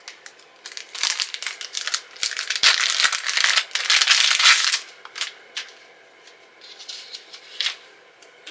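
Plastic packaging crinkling and rustling as a phone case is handled and unwrapped. The crinkling is dense for a few seconds, then thins to scattered crackles.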